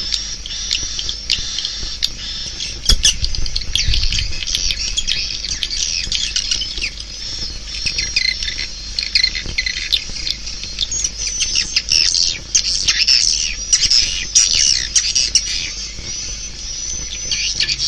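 Swiftlet call recording: a dense, unbroken chorus of rapid high chirps, twitters and clicks, busier in the second half. It is the kind of lure sound played through tweeters to draw swiftlets into a nesting house.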